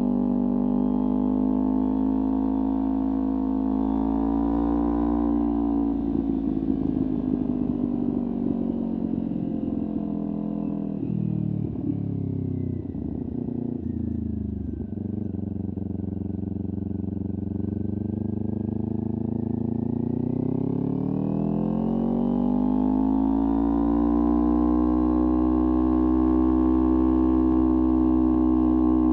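Kawasaki Ninja 400 parallel-twin engine through a LeoVince aftermarket exhaust, running at steady revs. About five seconds in, the revs fall away as the bike slows, and they sit low and uneven for several seconds. Past the middle they rise again as it accelerates, then hold steady near the end.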